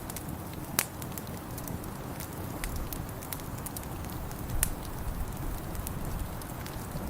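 Wood fire in a fireplace crackling, with scattered sharp pops, the loudest about a second in and again past the middle, over a low steady rumble.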